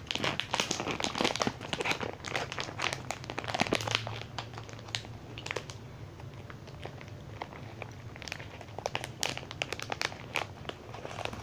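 Crinkling and crackling of a store-bought muffin's wrapper being handled up close: a dense run of small crackles, busiest in the first half and thinning out later.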